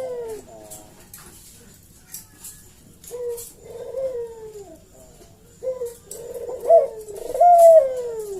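Barbary dove (burung puter) cooing in repeated phrases. Each phrase slides down in pitch, and the last one, near the end, is the longest and loudest.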